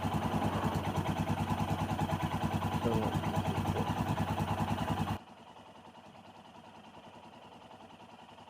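Royal Enfield Himalayan single-cylinder engine idling, picked up loud and close while a Garmin instruction switches the Sena 10C's recording to its external microphone. The signal cuts off suddenly about five seconds in, and the engine drops back to faint.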